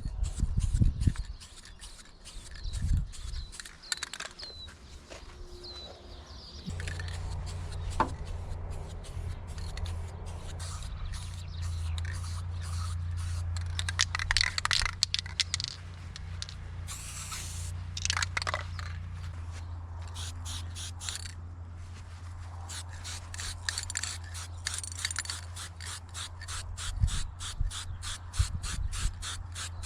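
Repeated scraping strokes on the van's painted metal bodywork, coming fast and even in the last third. A steady low hum sets in about seven seconds in.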